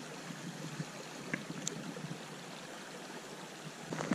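Small mountain stream running steadily over rocks, with a couple of faint clicks about halfway through.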